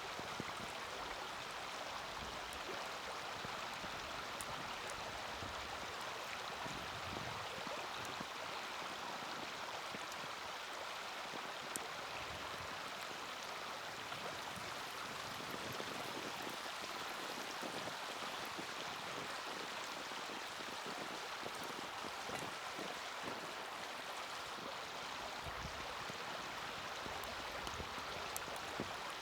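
Steady rushing noise like running water, with a few faint sharp pops from a small wood fire burning in a mini hexagonal fire stand.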